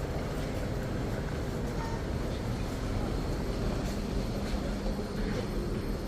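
Steady low rumble of a train at a station platform, with a faint even hum and a few scattered light ticks.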